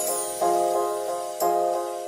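Lofi Christmas background music: soft keyboard chords, two of them struck about a second apart.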